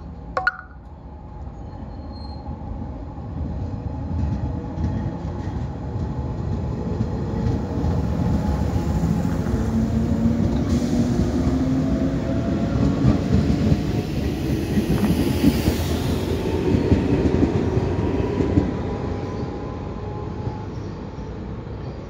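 A 115-series electric train of two coupled sets pulls out of a station and accelerates past: the traction motors whine, rising in pitch, over a heavy rumble and wheel clatter. The sound grows loudest as the cars pass close and fades as the train pulls away. A short sharp sound comes about half a second in.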